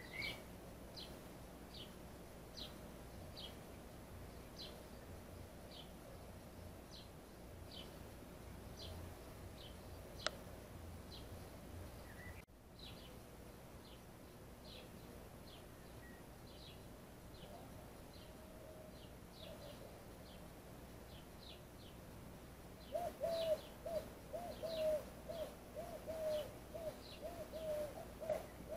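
A small bird calling over and over with short, high chirps, evenly spaced a bit faster than once a second. In the last several seconds a louder run of quick, even, lower-pitched notes comes in, about two a second.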